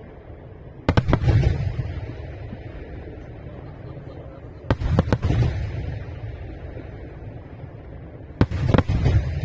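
Aerial firework shells bursting in three volleys, about four seconds apart. Each volley is a few sharp bangs in quick succession, followed by a low rolling echo.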